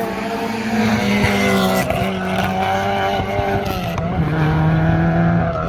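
Mazda RX3 rally car's rotary engine running hard on a tarmac stage, its note holding and then stepping lower a couple of times.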